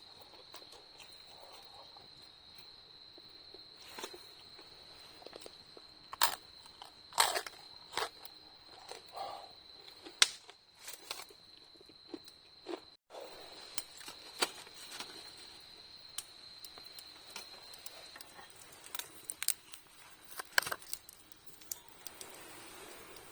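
Crickets trilling steadily at a high pitch, with scattered sharp clicks and knocks throughout. The trilling breaks off about 13 seconds in, comes back, and fades out a few seconds later.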